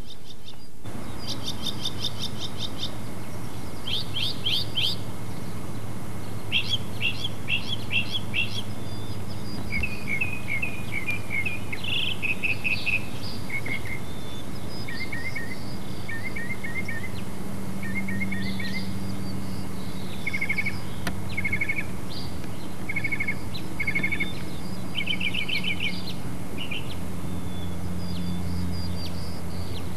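A songbird chirping and singing in short high phrases, each phrase repeated several times before it changes to a new one, over a steady low hum.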